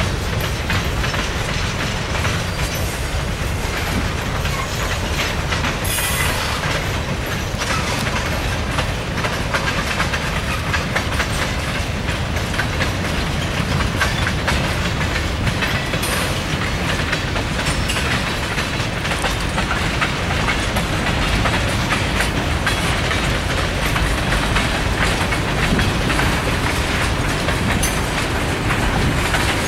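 Freight train cars, tank cars and blue skeletal intermodal container cars, rolling past at a steady speed: a continuous low rumble from the wheel trucks with a rapid run of wheel clicks on the rails.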